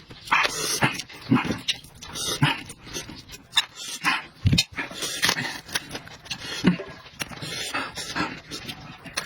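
A person eating close to the microphone: irregular wet chewing, lip-smacking and mouth clicks, with short slurps.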